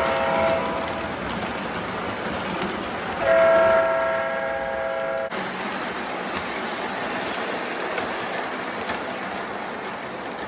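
Three-rail O-gauge toy train running on its track, with a steady rolling clatter. Its onboard sound system sounds the horn twice: a short blast at the start and a longer, louder one about three seconds in that cuts off sharply.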